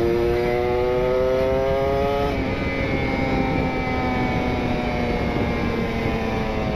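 Kawasaki Ninja RR two-stroke engine, on a rich carburettor setting and breathing through an R9 aftermarket exhaust, revving up under throttle for about two seconds, then dropping suddenly as the throttle closes or it shifts, its note sinking slowly while it rolls on. Wind rushes over the microphone throughout.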